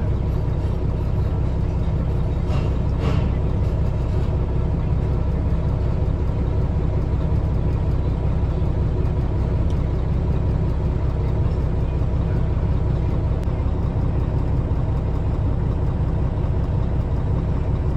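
Truck engine idling steadily, a constant low rumble heard from inside the cab.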